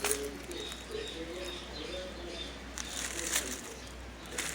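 Dove-like cooing, a low wavering call repeated softly, with a few faint clicks.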